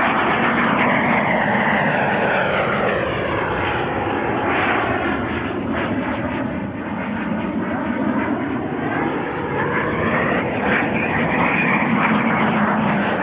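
JP Hobby 120 mm 12-blade electric ducted fan of an RC jet running at full throttle in flight. It makes a loud, steady jet-like rush with a thin high whine that slowly falls in pitch, and the tone swells and shifts as the model flies past.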